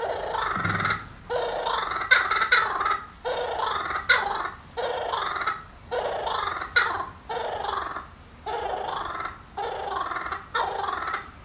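Laughing kookaburra giving its laughing call: a long run of loud, harsh cackling phrases, one after another with short breaks.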